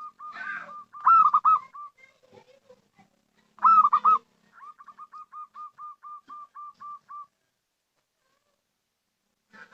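Zebra dove cooing. Two loud bursts of quick arched notes come first, then a run of about fifteen short, softer notes at roughly six a second, which stops about seven seconds in.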